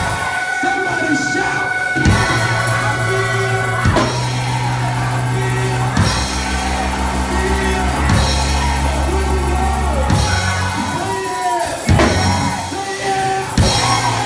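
Church gospel music: held bass and keyboard chords that change about every two seconds, with a drum hit on each change and voices singing and shouting over it.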